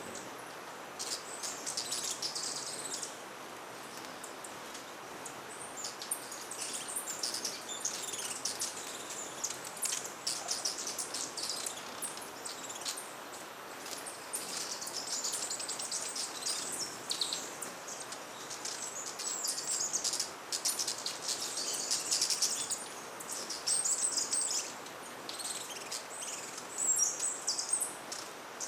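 Many hummingbirds chipping and twittering at a feeder: short, high-pitched squeaky calls and trills that come thick and fast, over a steady background hiss.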